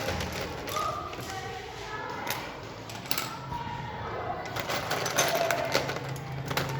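Irregular clicking and clattering of small robot-kit parts being handled and taken apart, with voices in the background. A low steady hum comes in about two-thirds of the way through.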